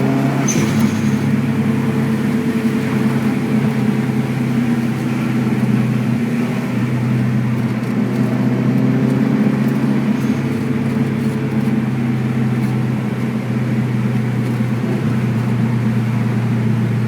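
Subaru WRX's turbocharged flat-four engine droning steadily at cruise, its pitch drifting slowly up and down with light changes of throttle, over road noise.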